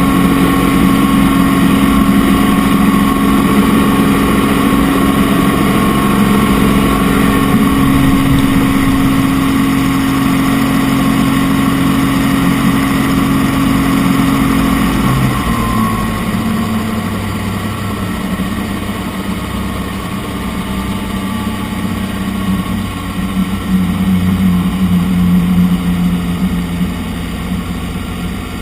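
Helicopter engine and rotor running steadily; about halfway through the pitch drops and the sound gets quieter.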